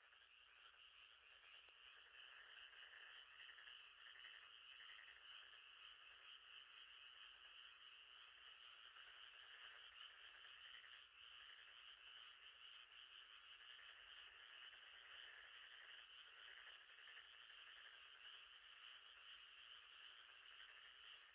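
Faint, steady night chorus of frogs trilling continuously.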